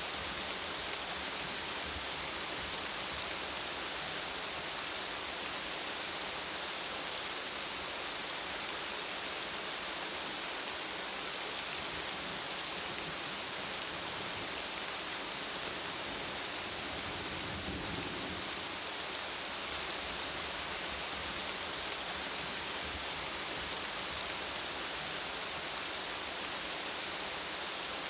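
Steady rain falling, an even hiss of drops on hard surfaces, with a brief low rumble about two-thirds of the way through.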